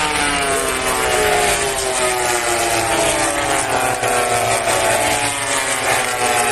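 MotoGP race motorcycles passing at speed, several engine notes overlapping, each falling gradually in pitch.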